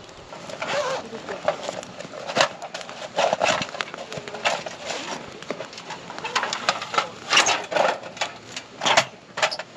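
A string of irregular sharp clicks and knocks, like light objects being handled and clattered.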